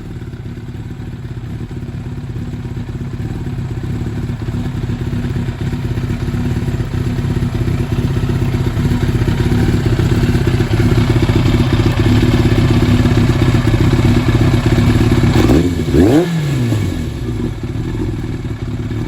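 Yamaha FZR1000 inline-four motorcycle engine idling through an aftermarket BlackWidow exhaust, growing louder over the first ten seconds. About sixteen seconds in it gives one quick throttle blip that rises and falls back to idle.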